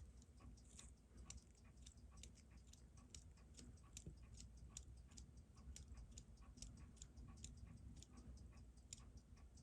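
Faint, quick, evenly spaced ticking from a Seiko 6139-8029 automatic chronograph wristwatch as it is handled and its time is set.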